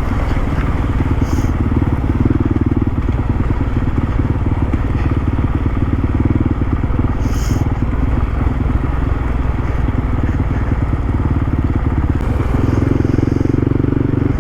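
Dual-sport motorcycle engine running under way, its note swelling and easing a few times, with two brief high ticks about a second and a half in and again about halfway through.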